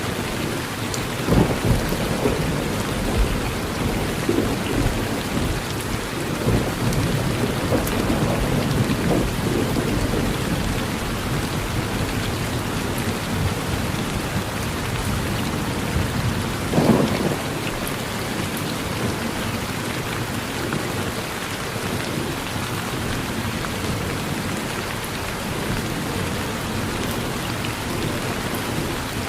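Steady rain falling on a porch, with rolls of thunder rumbling through the first third and a stronger thunder clap about seventeen seconds in.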